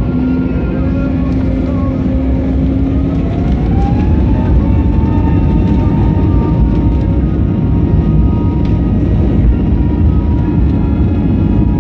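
Jet airliner engines heard from inside the cabin during takeoff: a loud, steady low rumble with a whine that rises in pitch over the first few seconds and then holds steady, as the engines spool up to takeoff thrust.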